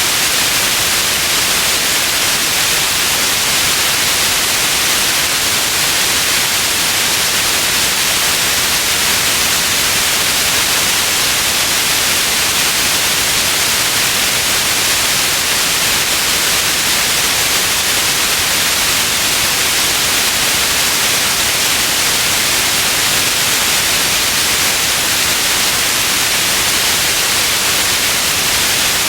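Steady white noise: an even, unchanging hiss, bright and strongest in the high end.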